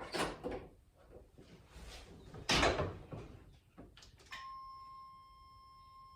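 Vehicle door clunking and being shut with a loud thud, with some rattling around it. About four seconds in, a steady warning tone comes on and keeps sounding, as the ignition is switched on before cranking.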